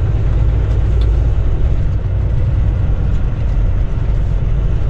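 Semi truck's diesel engine running as the truck rolls slowly, heard from inside the cab as a steady low rumble.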